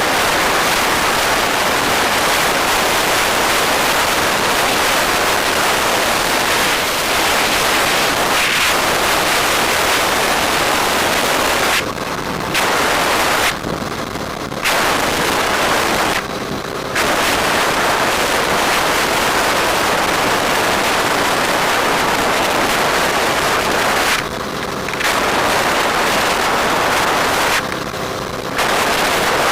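Wind rushing over the microphone of a camera on a moving motorbike: a loud, steady rush that drops away briefly about five times, letting a faint engine hum through in the lulls.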